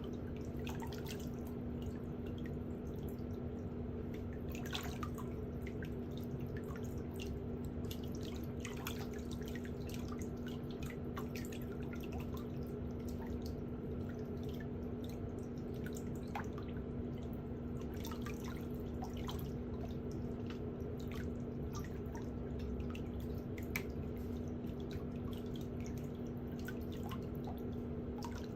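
Small, irregular clicks and light scrapes of metal pedicure hand tools working at toenails and their sidewalls, over a steady low hum.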